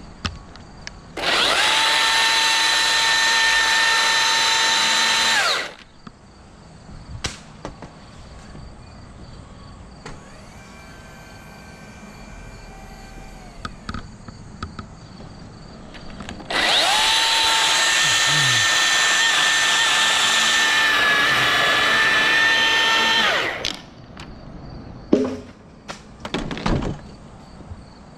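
An electric motor whines at a steady pitch in two runs, one of about four seconds and a later one of about seven. Each run spins up at the start and winds down at the end, with a few knocks in between.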